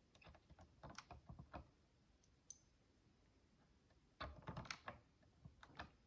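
Tiny plastic micro building bricks clicking and rattling as they are handled, in two short flurries of sharp clicks, the second denser and louder.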